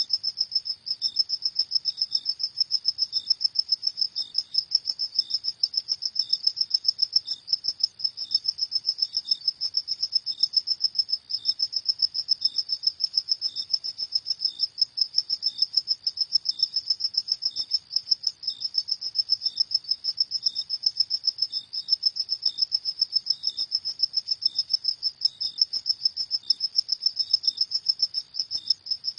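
Crickets chirping: a steady, fast run of high-pitched pulses, several a second, with a fainter, lower chirp repeating about once a second.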